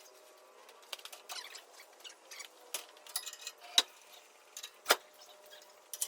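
Irregular sharp metallic clicks and clinks of hand tools and parts during work on an engine, with two louder knocks about four and five seconds in.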